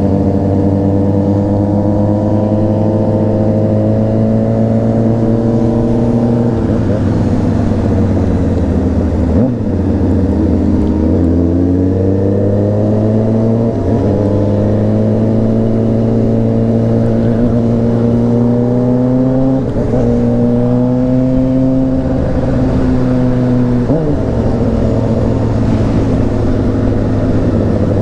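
Honda CBR600RR inline-four engine pulling under throttle, its pitch climbing steadily and then dropping sharply at each upshift, five times.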